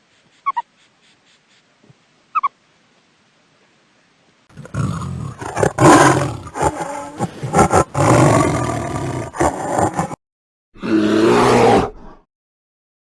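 A big cat roaring and growling loudly for about five and a half seconds, then a single roar of about a second and a half. Two short faint high chirps come before the roaring.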